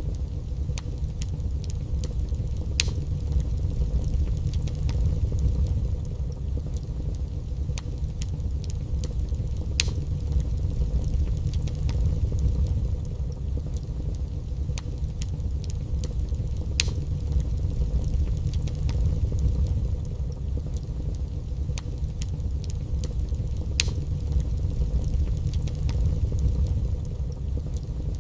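Fire burning in a fireplace: a steady low rumble with sharp crackles and pops every second or few.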